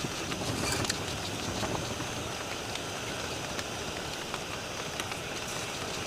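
Steady rain falling, a continuous hiss with scattered drips and ticks, a little louder in the first second.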